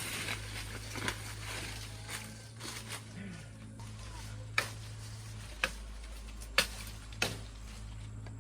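Blade chopping into sugarcane stalks: a soft rustling of leaves and cane at first, then four sharp chopping knocks about a second apart in the second half.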